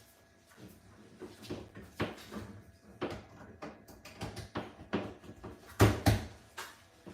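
A run of irregular knocks and clicks, like things being handled and set down, with the loudest, a double knock, about six seconds in.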